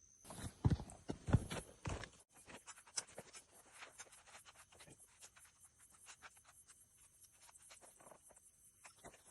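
Wood fire crackling: a few heavy knocks in the first two seconds, then a quick, uneven run of small pops and clicks.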